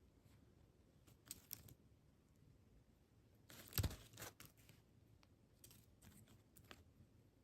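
Quiet handling noises: a few scattered faint crinkles and clicks, with a short tearing, crinkly rustle about halfway through as the loudest sound.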